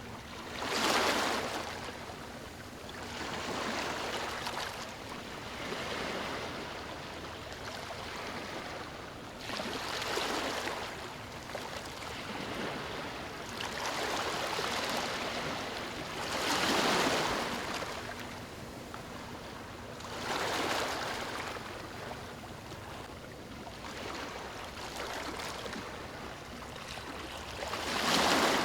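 Ocean waves breaking on a beach, each wash swelling and fading every few seconds. The biggest breakers come about a second in, midway, and near the end.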